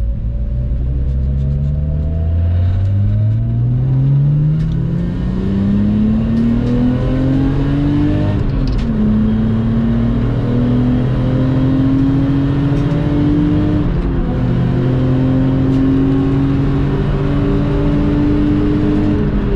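Lexus IS200 engine accelerating hard on track, its pitch climbing steadily through each gear. It drops sharply at upshifts about eight and a half seconds in, again about fourteen seconds in, and once more at the end.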